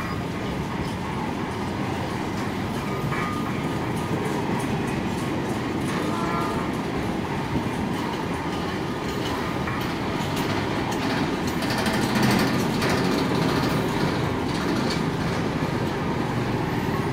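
Loaded container flat wagons of a freight train rolling past: a steady rumble of wheels on the rails, with a run of quick wheel clicks around ten seconds in.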